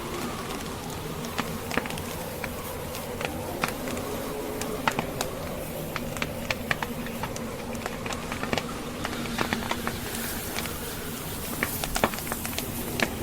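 Log fire crackling, with many sharp irregular pops over a steady low drone of snowstorm wind.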